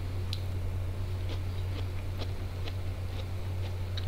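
Close-miked chewing of biryani eaten by hand, with small scattered mouth clicks and smacks, over a steady low electrical hum.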